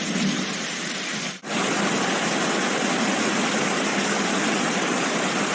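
Floodwater rushing through a street, a steady rushing noise with a brief break about a second and a half in.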